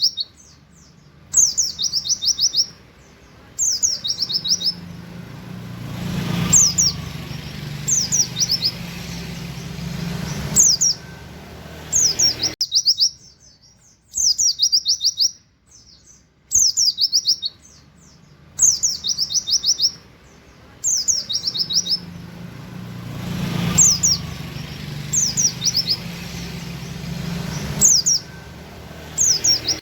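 Pet white-eye (pleci, buxtoni type) singing: repeated bursts of quick, high, sharply falling whistled notes, the rapid 'wit wit' volleys known as 'nembak', with short pauses between bursts.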